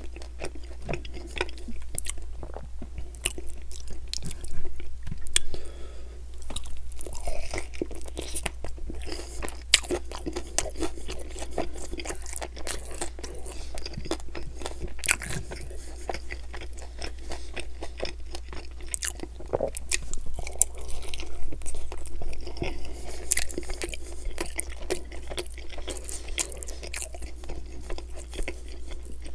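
Close-miked chewing and biting of sauced chicken wings: wet, crunchy mouth sounds with frequent sharp clicks, over a steady low hum.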